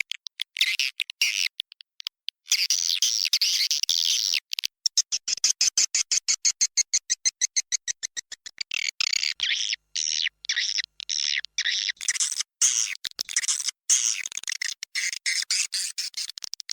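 Swiftlet lure call: edible-nest swiftlets twittering in a dense chorus of high chirps and trills, with a stretch of fast, evenly repeated chirps from about five to eight seconds in. It is the call played to draw swiftlets into a nesting house.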